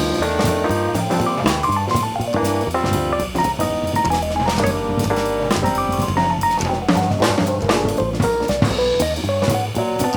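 Live jazz band playing, with the drum kit to the fore: bass drum, snare and cymbals under quick runs of melodic notes.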